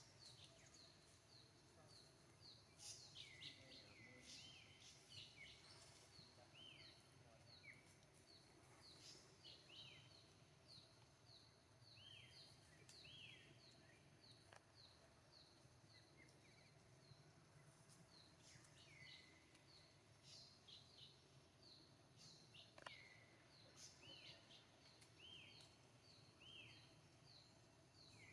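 Faint outdoor ambience: a short high chirp repeats evenly a little under twice a second, with an occasional falling whistled call over it, typical of birds calling.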